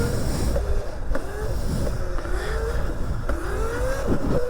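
Electric pit bike's motor whining while riding, its pitch rising and falling several times with the throttle, over heavy wind rumble on the microphone.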